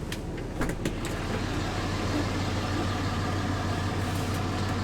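5.9 L Cummins inline-six turbodiesel of a 2005 Dodge Ram 3500 idling steadily, with a few sharp clicks in the first second.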